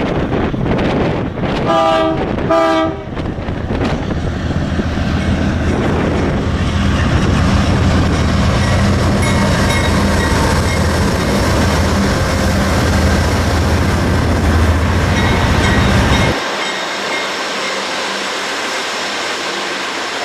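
BNSF freight train passing: two short blasts of a diesel locomotive's chord horn about two seconds in, then the steady low rumble of the locomotives and rolling cars, which drops off suddenly about sixteen seconds in.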